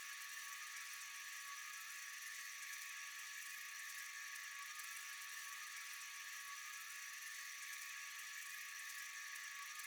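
Night-time insect chorus: a steady, high, hissing buzz of many insects calling together, with a faint thin tone running through it.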